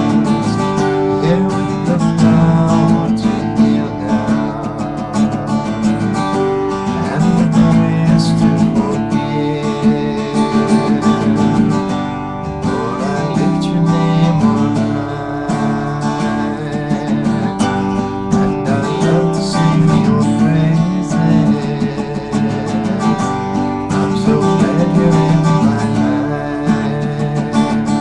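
Music played on acoustic guitar, strummed and picked without pause.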